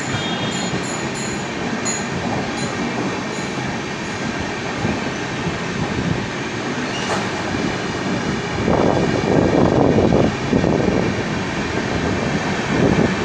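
Train running on the rails with a steady rumble. A row of short, high squeals sounds in the first few seconds, and it grows louder for a couple of seconds about nine seconds in.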